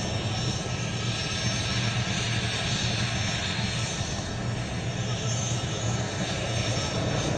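Aircraft engine running with a steady drone and a constant low hum.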